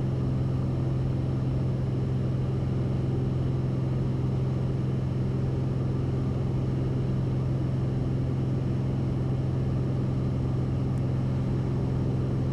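Cessna 172RG's four-cylinder Lycoming O-360 engine and constant-speed propeller running steadily at climb power during a climb-out. It makes an even drone with a strong low hum.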